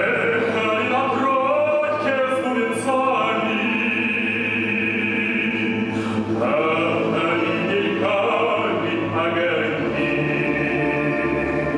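A singer in an operatic style, with a wide vibrato on long held notes, accompanied by the orchestra playing live.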